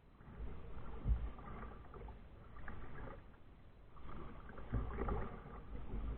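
Kayak paddling: two swells of water splashing and sloshing, each with a dull low thump.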